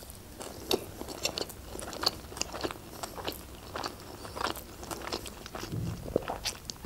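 Chewing a mouthful of sushi roll topped with chuka seaweed salad: irregular small crunches and mouth clicks, several a second.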